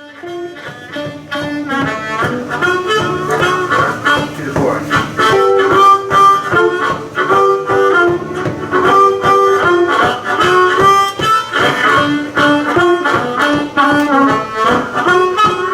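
Live blues band: a harmonica plays the lead over electric guitars and drums keeping a steady beat. The music swells up over the first few seconds, then plays on at full level.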